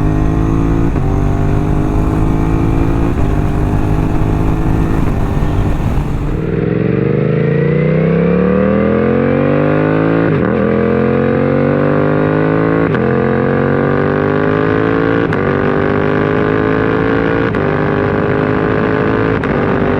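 2024 Suzuki GSX-8S parallel-twin engine running through an M4 full exhaust. The note holds steady at first. About six seconds in, the revs climb from low as the bike accelerates, and the pitch drops and rises again at each quick-shifter upshift.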